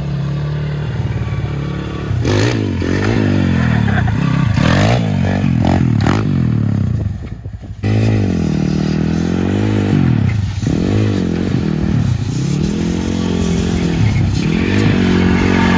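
Pit bike's small single-cylinder engine revving up and falling back again and again as it is ridden on small chair caster wheels, with knocks and rattles a few seconds in. The sound drops out briefly just before halfway, then the revving resumes.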